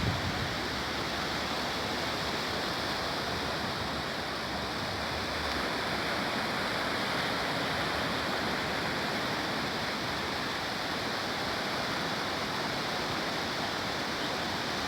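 Steady rushing wash of sea surf, an even hiss without distinct breaking waves.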